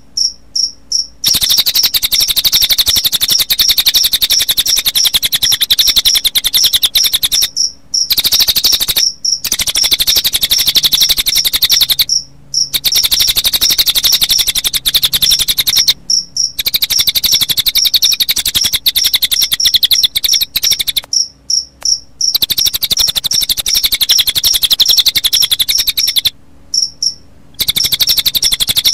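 Recorded cililin bird song mixed with cricket chirping: a fast, high-pitched pulsing trill that runs almost without pause, broken by brief gaps every few seconds.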